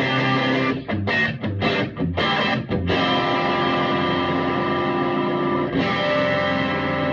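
Electric guitar through a Vintage Sound Amp with its tweed and plexi channels combined, with some distortion: a few short strummed chords, then a chord left to ring from about three seconds in, struck again about six seconds in and held.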